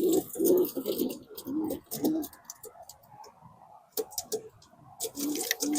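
Young racing pigeons cooing in a plastic transport crate, with scattered sharp clicks and taps.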